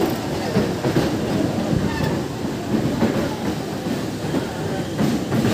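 Moving passenger train: a steady rumble of wheels on the track, with a few clickety-clack knocks over the rail joints.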